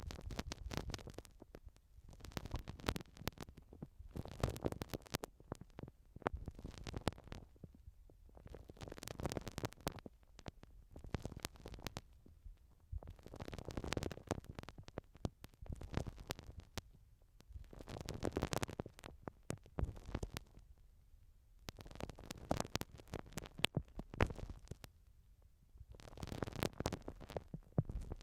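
Spiky 'unibozu' ear-cleaning tool scratching and rubbing against a binaural microphone's ear. It comes in repeated crackling strokes, each a second or two long, with short pauses between them.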